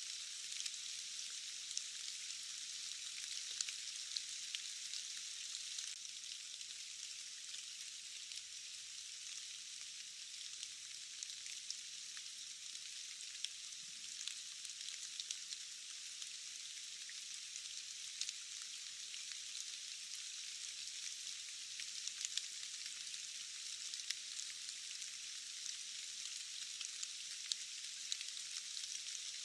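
Steady rain: a thin, even hiss of dense drop patter with countless small ticks and no low rumble.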